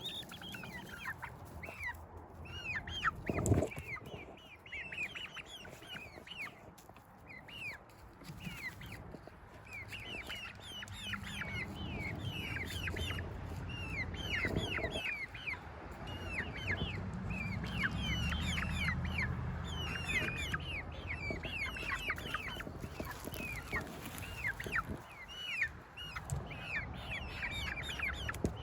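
A backyard flock of chickens and turkeys calling with many short, high chirps and peeps as they settle to roost. There is a sharp knock about three and a half seconds in and another near the middle, and a low rumble underneath for a while.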